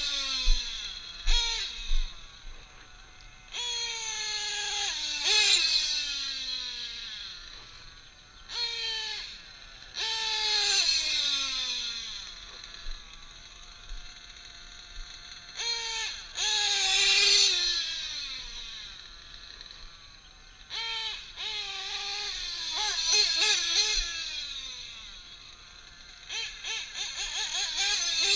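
Nitro RC truggy's modified Novarossi .28 glow engine revving hard in six or seven separate runs, each rising to a high whine and then falling in pitch as it comes off the throttle, with quick throttle blips between runs. The engine is still breaking in, with about three tanks through it.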